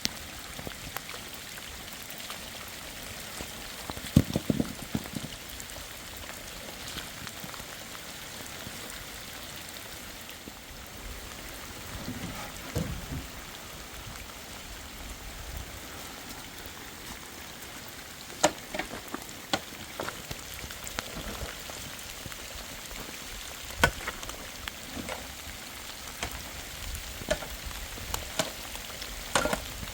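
Steady rain hissing, with scattered sharp taps and a few dull knocks over it.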